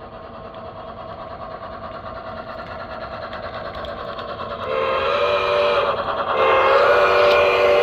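Model steam locomotive's sound system: train running noise growing steadily louder as it approaches, then the steam whistle blows twice, a steady chord of several notes, about five seconds in and again near the end.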